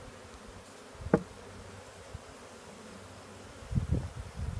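A large honeybee swarm buzzing steadily, with one sharp knock about a second in and a run of low bumps near the end.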